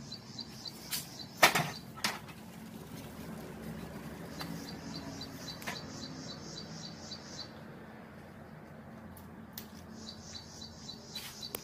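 A small bird calling in quick, even runs of high chirps, about four a second. The runs last a few seconds, one ending about seven seconds in and another starting about ten seconds in. A few sharp knocks about one and two seconds in are the loudest sounds.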